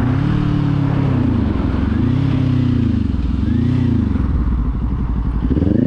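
Kawasaki Z400's parallel-twin engine and exhaust running under way, its pitch rising and falling about four times as the throttle is opened and eased off.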